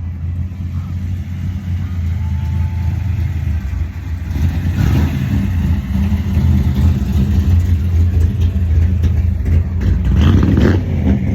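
Car engine running as a car rolls slowly past, a low steady rumble that grows gradually louder as it comes closer.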